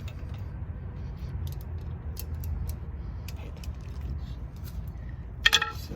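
Metal hand tools clicking and clinking as a 17 mm socket is picked out, over a steady low rumble. A louder metallic clink with a brief ring comes near the end.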